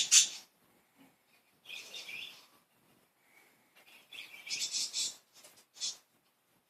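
Budgerigars chirping and chattering in short high-pitched bursts separated by pauses, with a loud burst at the very start and further bursts about two seconds in and around five seconds.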